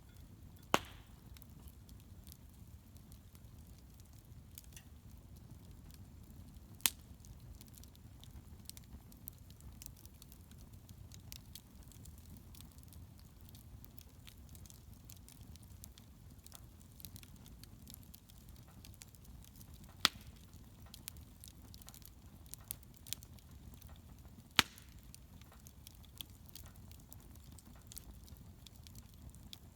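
Wood bonfire crackling: many faint ticks over a low steady rumble, with four loud, sharp pops spread through.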